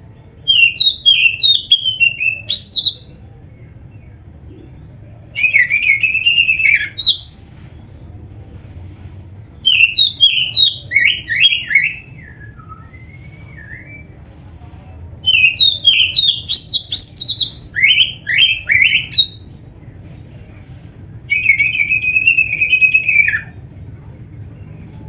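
Oriental magpie-robin (kacer) singing in five loud phrases of fast whistled and chattering notes, each lasting about two seconds, with the fourth about twice as long, separated by short pauses. A faint steady low hum lies underneath.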